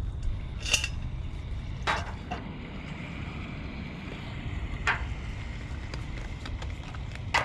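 Steady low wind rumble on the microphone, with a few short sharp clicks and taps from handling coffee gear.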